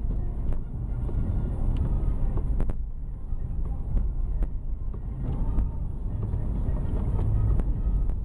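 Car driving on snow-covered streets: a steady low rumble of engine and road noise, with scattered clicks and knocks, the sharpest about two and a half seconds in.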